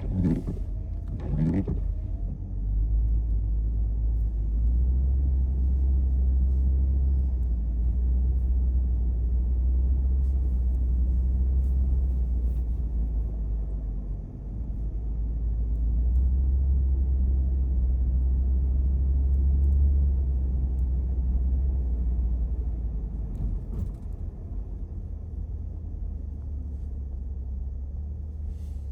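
A car driving on snowy roads: a steady low rumble of engine and tyre noise that eases briefly about halfway through, then again later on.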